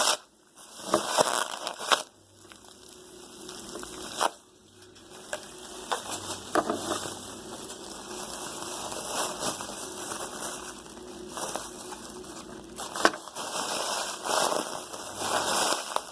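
Small plastic trash bag stuffed with cotton being squeezed and handled, the thin plastic crinkling and crackling unevenly, with a few sharper crackles.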